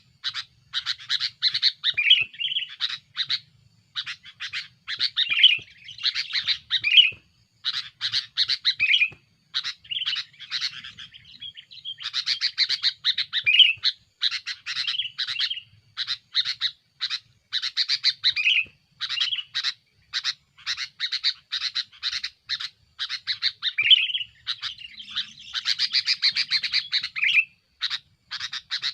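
Sooty-headed bulbul (kutilang) singing busily: rapid chattering notes in phrases every couple of seconds, many ending in a lower slurred note, the kind of lively song used to draw wild bulbuls in.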